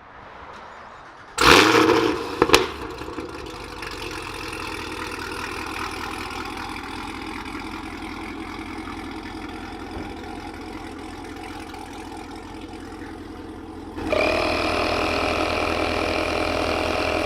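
Supercharged 6.2-litre V8 of a Chevrolet Camaro ZL1 1LE starting with a loud flare, then settling to a steady idle. Near the end a louder steady mechanical sound with a whine joins in.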